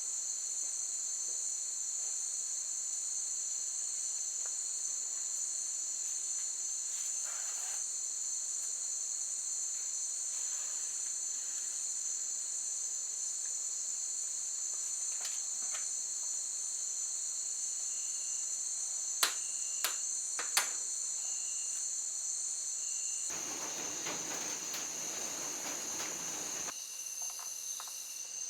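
Steady, high-pitched chorus of insects trilling without a break. About two-thirds of the way through come three sharp clicks in quick succession. Near the end a burst of hiss lasts about three seconds, and the insect pitch changes after it.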